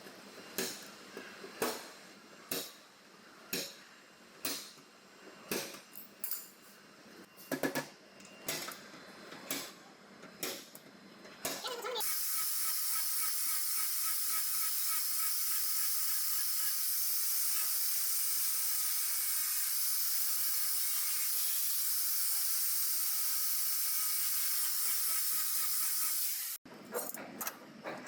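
Sharp knocks about once a second, like metal being tapped. Then a long, steady hiss of compressed air, as from an air blow gun or spray gun, which cuts off abruptly, followed by a few quick clicks.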